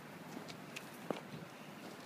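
Footsteps knocking and crunching on riverbank stones, a few sharp irregular knocks with the loudest about a second in, over a steady hiss of background noise.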